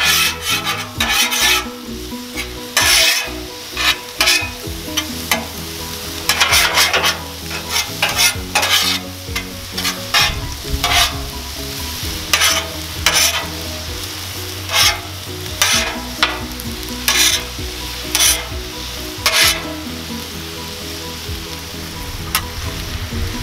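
Food sizzling on a hot Blackstone flat-top griddle while metal spatulas scrape, turn and tap on the steel. The spatula strokes come in irregular bunches every second or two over a steady sizzle.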